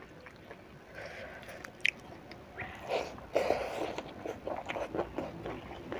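Close-up eating sounds: a mouthful of fried fish and rice being chewed, with small wet mouth clicks and smacks. It starts sparse and gets busier about halfway through.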